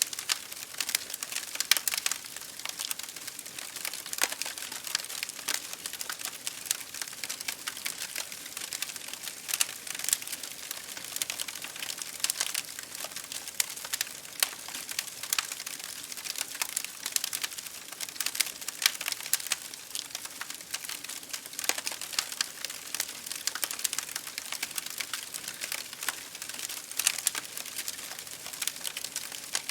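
Wood fire crackling in a fireplace, with many small irregular pops and snaps, over a steady patter of rain on window glass.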